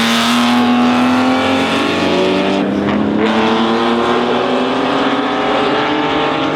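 Historic racing car engine accelerating, its pitch climbing steadily, with a brief drop in the upper hiss about three seconds in.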